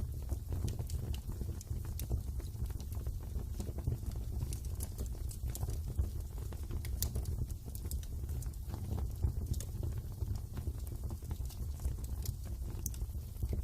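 Wood fire burning in a fireplace: a steady low rumble with irregular sharp crackles and pops of the burning wood scattered throughout.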